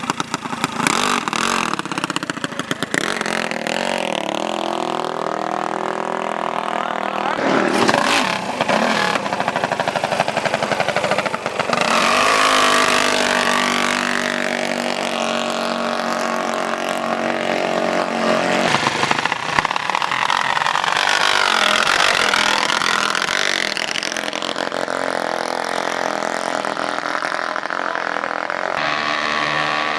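Small mini bike engines revving and running hard, their pitch rising and falling several times.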